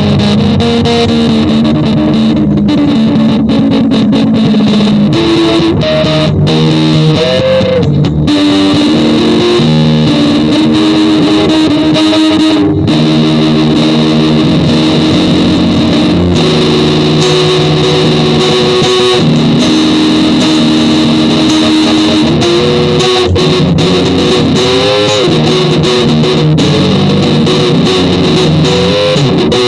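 Instrumental rock music led by a distorted electric guitar holding long notes, with a few bent notes, over bass.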